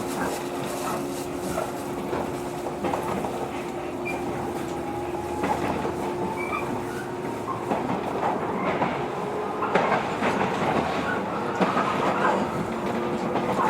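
Cabin sound of a JR 115 series electric train running, with the hum of the traction motors, the rumble of the wheels on the rails and clacks of the wheels passing over rail joints.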